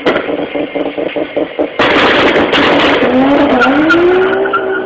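Twin-turbo Nissan Skyline GT-R's RB26 straight-six held on launch control, stuttering in rapid pops at about six a second. About two seconds in it launches hard with tyre squeal, and the engine note rises as the car accelerates away.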